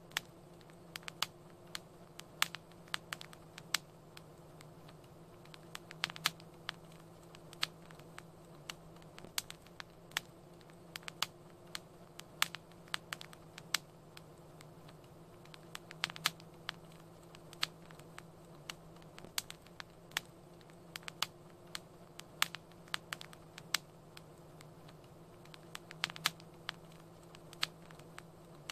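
Wood fire crackling in a fireplace: irregular sharp pops and snaps, several a second, over a soft steady hiss and low hum.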